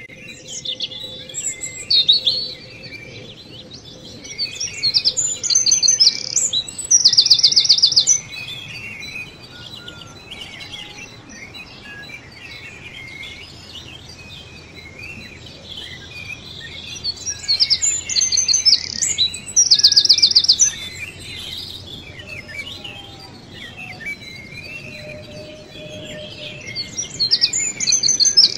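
Birds singing: a loud song of fast, high trills comes in bursts several times, with softer chirping in between.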